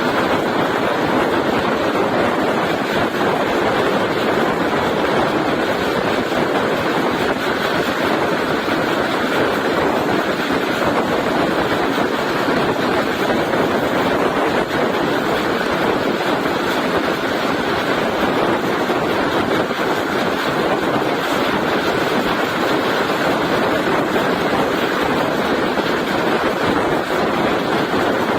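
Steady rushing running noise of a moving passenger train heard from on board, with wind noise.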